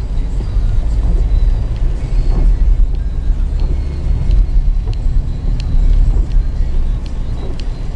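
A car driving: a steady low rumble of engine and road noise, with faint irregular ticks above it.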